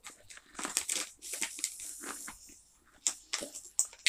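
Close-up crunching and chewing of a rice cracker stacked with cheese and chorizo: irregular crackly crunches, with a few sharper, louder crunches near the end.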